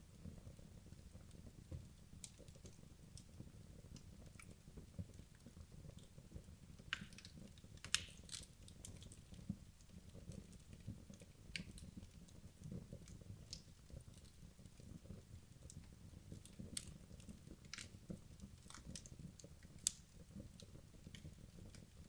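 Wood logs burning in a fireplace: a faint low rumble of flame with scattered sharp crackles and pops, the loudest about eight seconds in and again near the end.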